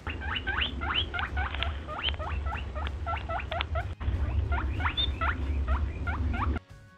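Rabbit squeaking: a rapid run of short, high, rising squeaks, several a second, over a low rumble. The squeaks break off briefly about four seconds in, then go on and stop shortly before the end.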